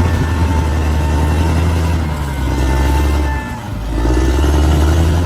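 Large bulldozer's diesel engine running steadily under working load. Its level dips briefly about three and a half seconds in, then picks back up.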